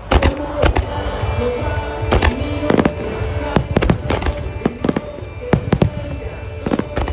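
Aerial fireworks shells bursting in a music starmine: more than a dozen sharp bangs in irregular quick succession, starting at once, over a pop song playing through loudspeakers.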